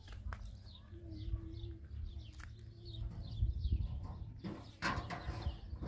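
Small birds chirping: short falling chirps, repeated over and over, above a low steady rumble, with a brief rustling burst about five seconds in.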